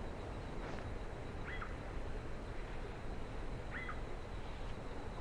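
Open-air background noise with a bird giving a short, repeated call about every two seconds.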